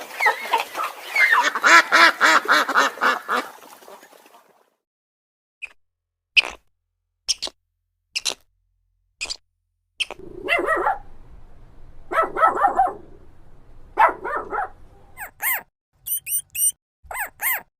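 A string of animal calls in quick succession: a dense cluster of pitched calls for the first few seconds, then single short sharp calls about once a second, then bursts of calls, and high chirps near the end.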